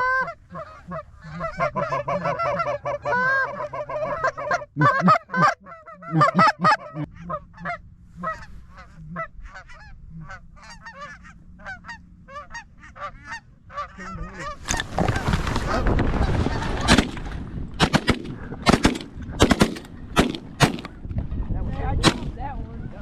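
A flock of geese honking steadily as they come in over the decoys, then, about fifteen seconds in, a volley of shotgun shots, several in quick succession over a few seconds, through the din of the flock.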